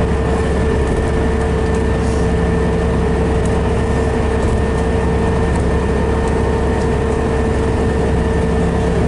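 Scania DS11 six-cylinder diesel engine of a Scania Metropolitan double-decker bus running steadily, a low rumble with a steady whine over it that holds an even pitch.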